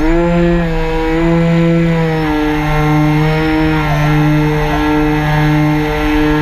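Multirotor drone's electric motors and propellers running with a loud, steady whine whose pitch shifts up and down in small steps as the motor speeds change.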